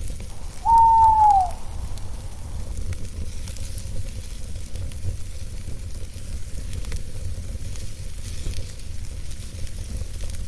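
Campfire crackling over a steady low rumble. About a second in, a single owl call sounds, one held note that drops in pitch as it ends, louder than the fire.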